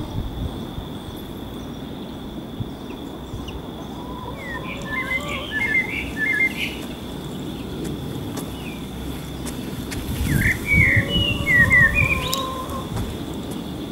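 A songbird chirping in two short bursts of quick, sliding notes, about four seconds in and again about ten seconds in, over a steady low outdoor background. Low thumps come with the second burst.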